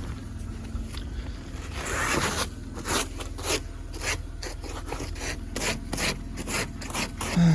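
Snow and ice being scraped off a car's glass in quick repeated strokes, about two a second, starting a couple of seconds in, over a steady low hum.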